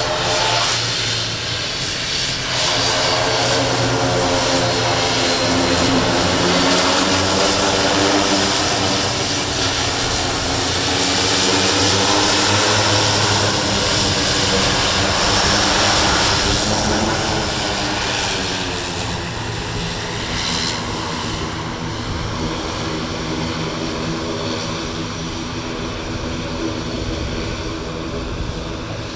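CASA C295 twin-turboprop at takeoff power, its propellers and engines making a loud, steady drone with a stack of tones. About two-thirds of the way in the pitch drops as it passes, and the sound then slowly fades as it moves away.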